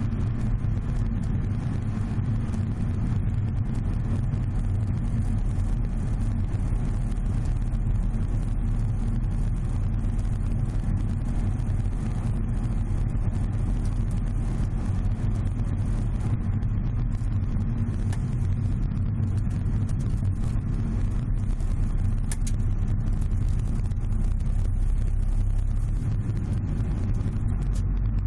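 Steady low road and drivetrain rumble inside the cargo area of a moving Subaru Legacy BH5 wagon, with faint, repeated crackling ticks from around the rear hatch; the cause of the crackle is still unknown.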